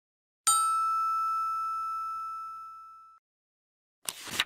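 A single chime dings once and rings with a clear pitch, fading away over about two and a half seconds. A short burst of noise follows near the end.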